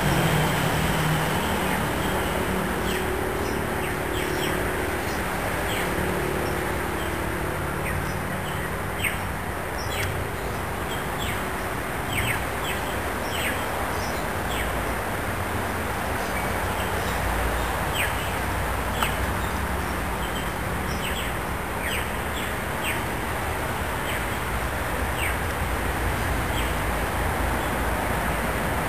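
Birds chirping again and again in short high notes that fall sharply in pitch, over a steady background rumble.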